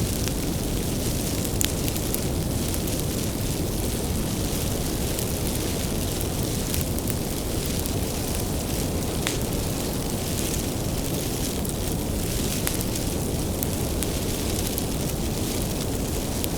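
Wood bonfire burning: a steady low rush of flames with scattered sharp crackles and pops from the firewood.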